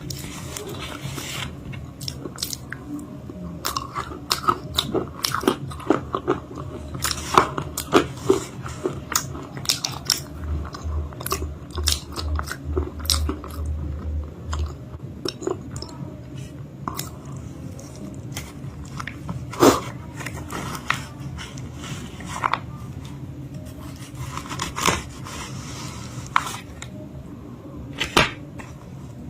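Close-miked biting and chewing of a crunchy homemade chalk-paste cake: irregular crisp crunches and cracks, with softer chewing in between.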